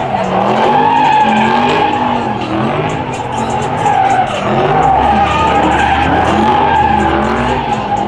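Muscle car spinning its rear tires: a steady, loud tire squeal over an engine whose revs rise and fall again and again. A deeper rumble joins about five seconds in.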